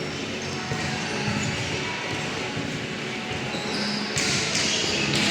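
Match ambience at a children's football game: a steady din with scattered distant voices calling out, and a louder rush of noise starting about four seconds in.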